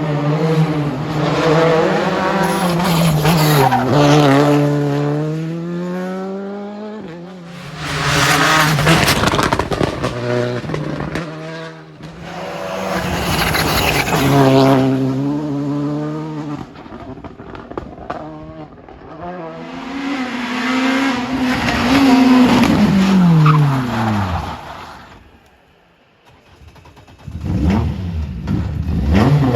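Rally car engines revving hard, the pitch climbing and dropping through gear changes as the cars come by. The sound swells and fades several times, with a brief lull near the end before the next car comes on.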